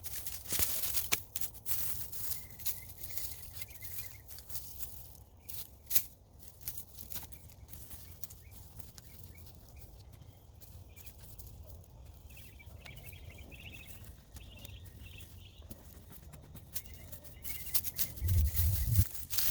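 Loose garden soil being dug and scraped by hand to unearth potatoes: irregular rustles, scrapes and small knocks, with a brief low rumble near the end.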